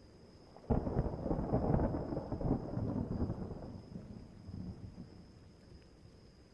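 A thunderclap: a sudden crack less than a second in, followed by a crackling rumble that slowly dies away over about four seconds.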